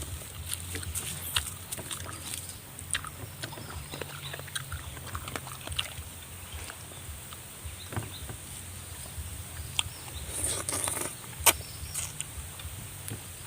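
Close-up eating sounds of chicken feet being chewed and sucked, with many small wet clicks and one sharper, louder click near the end.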